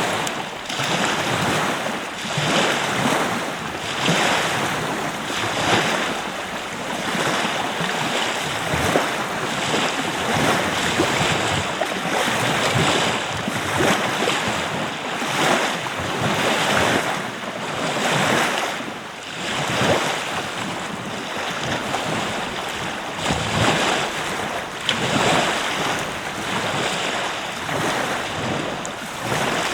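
Ocean surf washing on a beach, swelling and easing every second or two, with wind blowing across the microphone.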